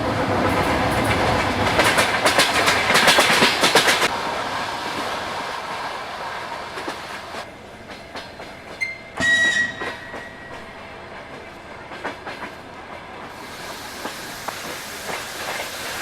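A train running past with rapid wheel clatter over rail joints, loud at first and fading over several seconds, followed about nine seconds in by a short, high whistle blast.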